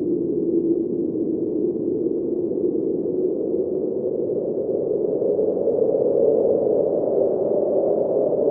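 Snowstorm wind blowing steadily with a low, hollow moaning tone that slowly rises in pitch.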